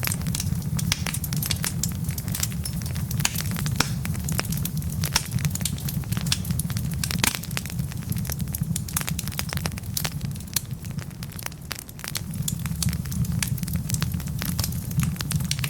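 Wood fire burning in a fireplace, with many irregular sharp crackles and pops from the logs over a steady low rumble of the flames. The crackling thins out briefly about three-quarters of the way through.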